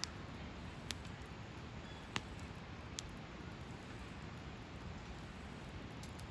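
Hardwood campfire burning with a steady low hiss and a handful of sharp crackling pops, the loudest about two seconds in.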